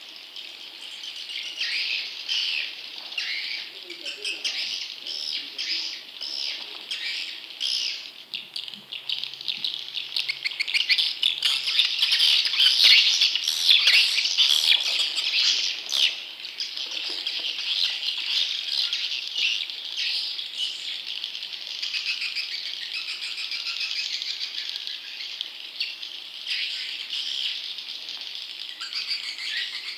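Swiftlet chick calls in a lure recording: a dense, continuous chatter of rapid high, rattling chirps. It is loudest about halfway through. Calls like this are played to draw wild swiftlets into a nesting house.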